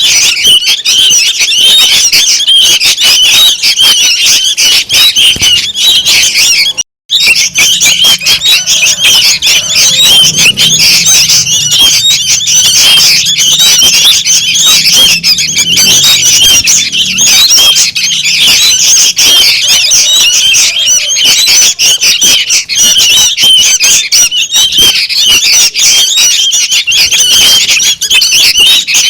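Young sooty-headed bulbuls calling noisily: a loud, dense, unbroken chatter of short high squeaky chirps. It is cut by a split-second dropout about seven seconds in.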